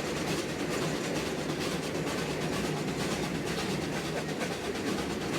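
15-inch gauge miniature train rolling along the track, a steady rumble and rattle with fast clicking of the wheels and cars.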